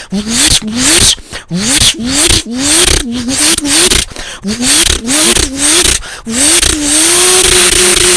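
A person's voice imitating a turbocharged Toyota Supra engine: short rising revs about twice a second, each cut off sharply, then from about six seconds in one long held high rev.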